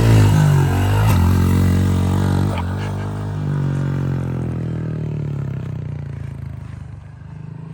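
Honda CRF110 pit bike's small single-cylinder four-stroke engine revving hard at the start, then running on and fading away, with two brief knocks early on.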